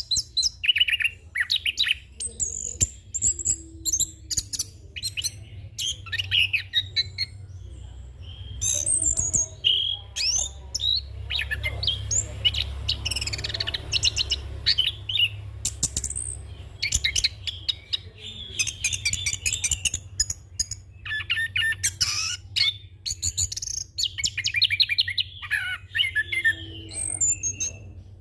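Chestnut-capped thrush (anis kembang) singing a long, continuous rolling song of rapid, varied whistles, trills and chirps, full of mimicked phrases, over a steady low hum.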